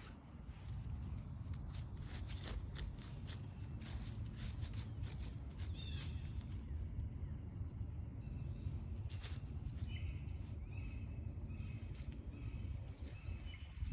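Footsteps crunching along a forest trail, densest in the first half, over a steady low rumble. Birds call in the background: a couple of single down-slurred notes, then a run of short repeated notes near the end.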